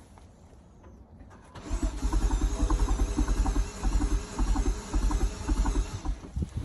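BMW N55 turbocharged straight-six being turned over by its starter motor for about four and a half seconds, with an even pulsing as the cylinders come up on compression. It never fires, and the cranking stops abruptly: a crank-no-start fault.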